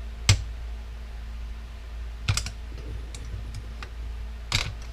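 A few sharp clicks and taps of a hand tool and small parts as O-rings are picked out of a RYOBI power washer's pump. The loudest click comes about a third of a second in, another about two seconds in and one near the end, over a steady low hum.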